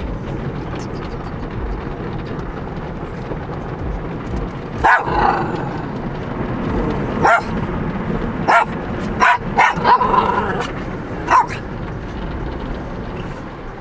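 A dog barking in short, sharp barks, about eight of them, starting some five seconds in and coming in a loose cluster, over the steady rushing and rumbling noise of a car wash.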